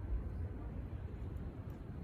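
Fire burning steadily: a low rumble with a few faint, scattered crackles.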